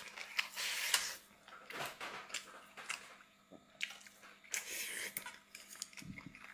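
A person chewing and biting food, with wet mouth sounds and irregular clicks.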